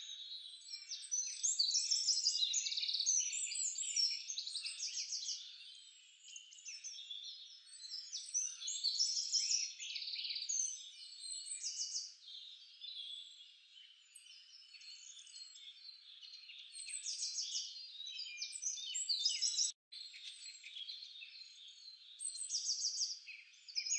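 A chorus of birds chirping and trilling, with many short high calls overlapping continuously. The sound cuts out briefly about twenty seconds in.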